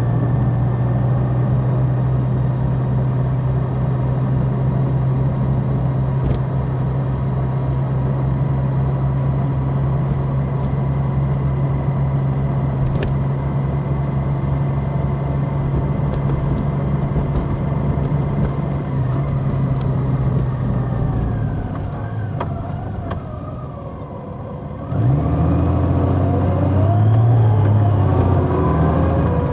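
Large motorcycle engine running at a steady cruise with road and wind noise, easing off and slowing about two-thirds of the way through, then pulling away again with rising pitch near the end.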